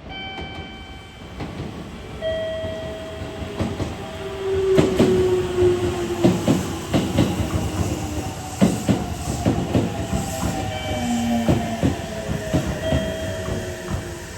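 Aichi Loop Railway 2000 series electric train running on the line, heard from the cab. Wheels clack and knock over the rail joints, with a motor whine that slides down in pitch. It gets louder about four seconds in.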